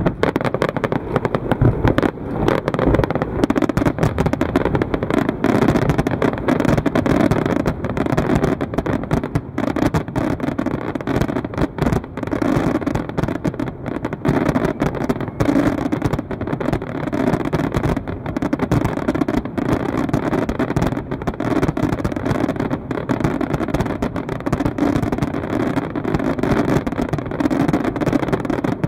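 Fireworks display: a dense, unbroken barrage of aerial shell bursts and crackling, many explosions overlapping one another.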